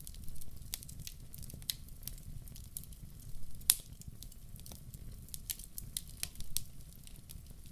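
Logs burning in a fireplace, crackling with irregular sharp pops over a low steady rumble of the flames. The loudest pop comes a little past the middle.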